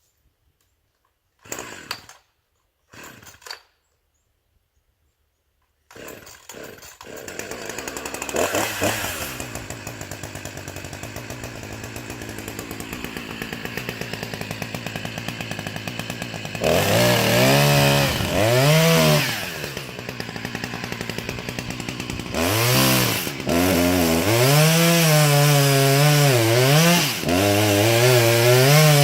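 Chainsaw pull-started, two short pulls and then catching about six seconds in. It idles, then from about halfway revs up and down repeatedly and runs at full throttle with the pitch wavering as it bogs and recovers under load, cutting into a tree trunk.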